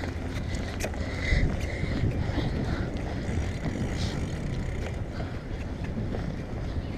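Wind buffeting the microphone as a bicycle is ridden fast, a steady low rumble with a brief louder gust about a second and a half in.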